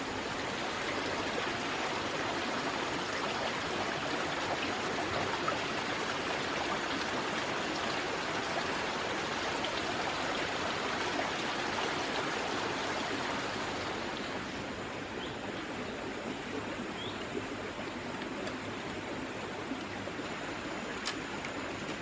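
A steady rush of running water, easing slightly about two-thirds of the way through.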